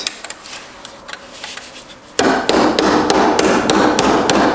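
Rapid hammer blows on metal, driving roll pins out of a Subaru six-speed transmission's shift mechanism. After a quiet start with a few light taps, the strikes start about two seconds in and come about four a second, with a metallic ring.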